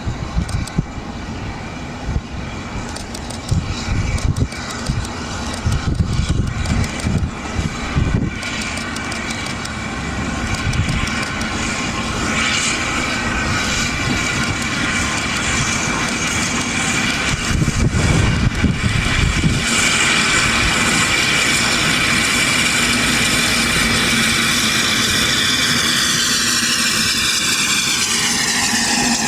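Train running past on the line. Irregular beats at first give way to a steady humming rail noise that builds in loudness, and its pitch falls over the last few seconds as the train goes by.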